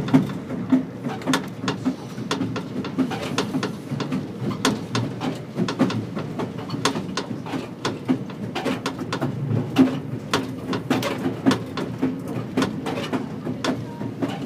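Passenger train rolling out through a rail yard, heard from inside the car: a steady low rumble with rapid, irregular clicking and clatter of the wheels on the track.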